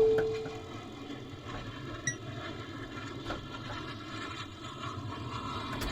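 Bally Supersonic pinball machine in play: a held tone from its sound board fades out in the first second. After that there is a low steady hum with a few faint clicks, a sharper one about two seconds in.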